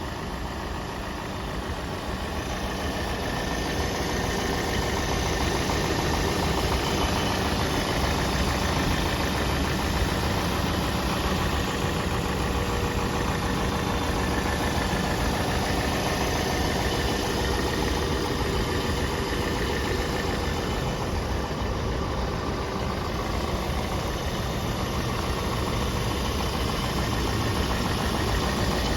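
1964 Rolls-Royce V8 engine running at a steady idle, getting a little louder over the first few seconds and then holding even.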